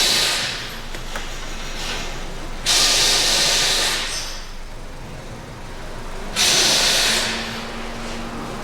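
Three short hissing blasts of pressurised gas, each about a second long and about three seconds apart.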